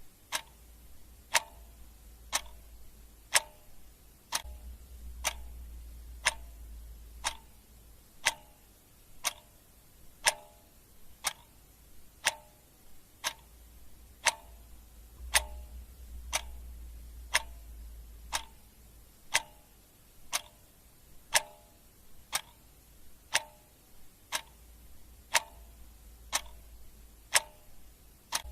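Clock ticking steadily about once a second, each tick a sharp click with a brief ring.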